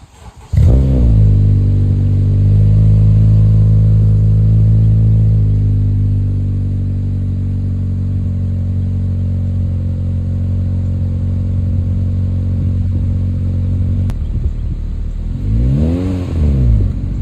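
Exhaust of a 2017 Honda Civic's 2.0-litre four-cylinder, fitted with a Vibrant Ultra Quiet resonator and Vibrant performance mufflers. The engine starts about half a second in with a brief flare of revs, then idles steadily and settles slightly lower partway through. Near the end it is blipped once, rising and falling.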